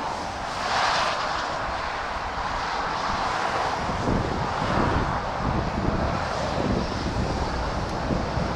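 Road traffic passing, a steady rushing noise of vehicles that swells as one goes by about a second in.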